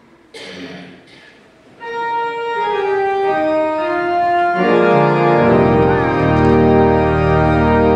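Church organ starting to play about two seconds in: held notes that build into full chords, with deep bass notes joining around the middle. A brief noisy rustle comes just before it.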